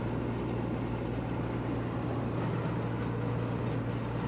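Rooftop packaged air-conditioning unit running steadily, its compressors and fans giving a constant low hum.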